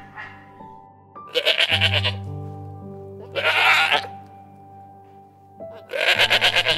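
Three short, quavering bleats from an animal, each under a second long, over soft background piano music.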